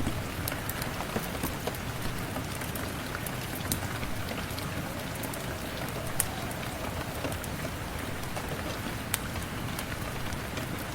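Steady rain falling, with scattered sharp crackles and pops from a wood fire.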